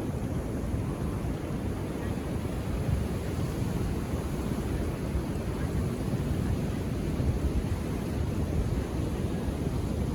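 Ocean waves washing onto a beach: a steady, deep rumble of surf with no separate breaks standing out.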